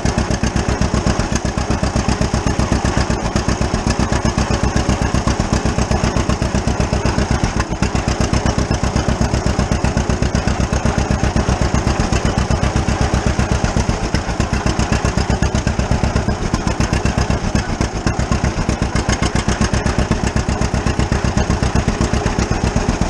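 1935 unstyled John Deere A's two-cylinder engine running steadily with the throttle opened up while the tractor drives along, giving a loud, even popping beat. The engine sounds healthy and runs strong.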